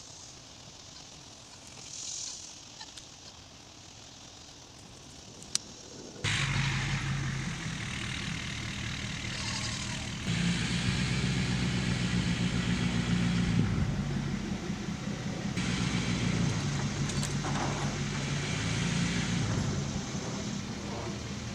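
A vehicle engine running steadily. It comes in abruptly about six seconds in, after a quiet stretch broken by a single sharp click.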